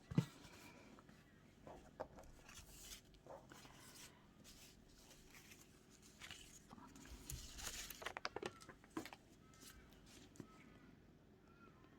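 Paper being handled: soft rustles and light taps as sheets are shifted and straightened, with a sharp knock just after the start and a busier patch of rustling a little past the middle.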